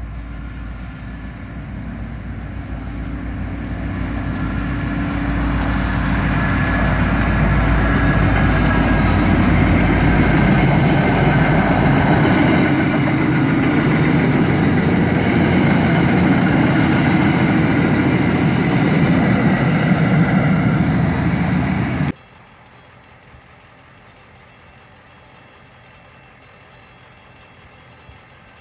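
A diesel-hauled CTrail train approaching and passing at speed: a low engine rumble grows louder and gives way to a steady loud rush of wheels on rail. About 22 seconds in the sound cuts off suddenly, leaving only a faint steady background noise.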